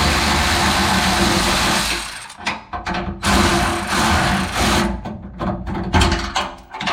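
Electric ratchet running in several bursts, spinning a skid plate bolt out: one long run for about two seconds, then short pulses, a longer run of about a second and a half, and more short pulses near the end.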